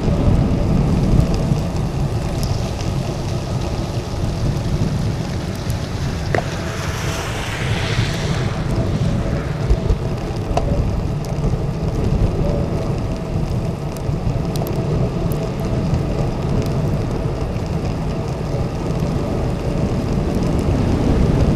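Wind rushing over the microphone of a bike-mounted action camera while cycling through sleet and rain, a steady heavy rumble with the hiss of wet tyres and sleet. A louder hiss swells and fades about seven to eight seconds in.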